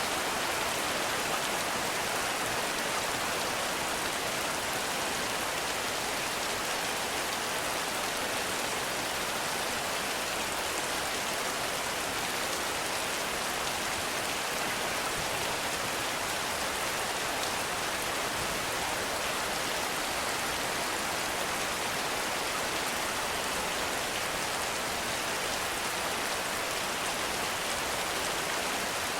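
Heavy rain falling in a forest: a steady, even hiss with no thunder.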